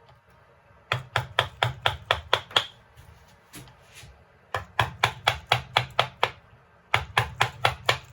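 Rapid sharp knocks of a carving blade chopping into a small piece of light wood, about five strikes a second. They come in three runs, the first about a second in.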